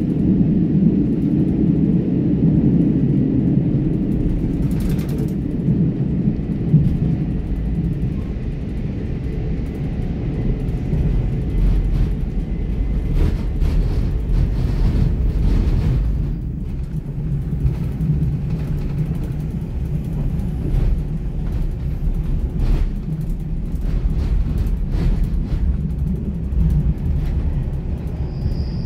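Passenger train running, heard from inside the carriage: a steady low rumble of wheels and running gear, with scattered short clicks and knocks.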